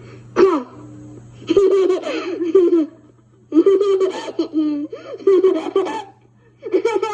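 A toddler laughing in three bouts, each with a high-pitched voice, played back from an old home cassette recording. A steady low hum runs underneath.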